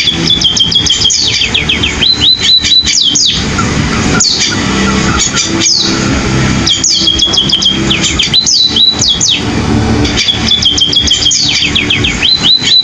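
Munia singing a canary-like song: phrases of a held high note followed by quick runs of falling twitters, repeated every few seconds, over a steady low hum.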